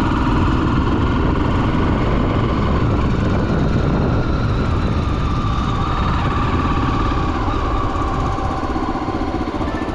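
Honda XR 250 Tornado's single-cylinder four-stroke engine running steadily, mixed with a constant rush of wind and road noise.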